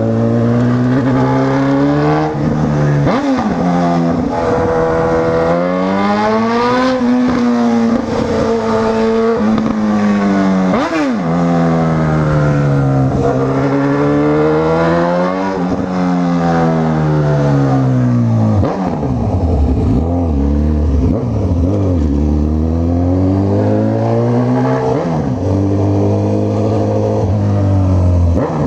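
Honda CB1000R's inline-four engine pulling through the gears. Its pitch rises in each gear and drops at every shift, several times over. From about two-thirds in it settles lower and steadier, with a couple of short revs.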